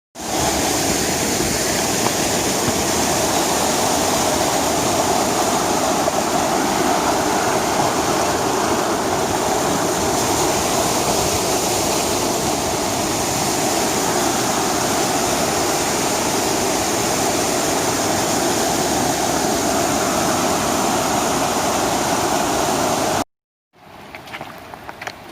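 Rushing water of a fast-flowing creek or falls, a loud steady rush. It cuts off abruptly near the end, leaving a much quieter hiss with a few light taps.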